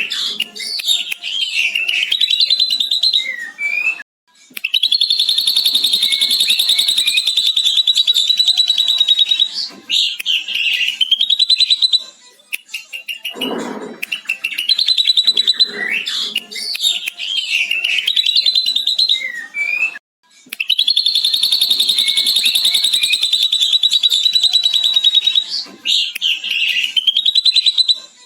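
Ashy drongo singing a song filled with a lovebird's long chatter: fast, rattling trills held for several seconds at a time, broken by short squeaky whistled notes. The same phrases come round again about every 16 seconds.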